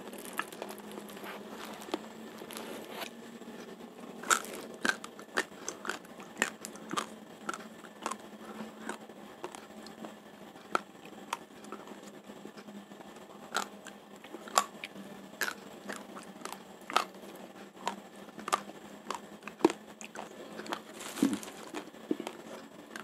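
Raw Rojolele rice grains crunched between the teeth while chewing: a string of sharp, irregular cracks, about one or two a second.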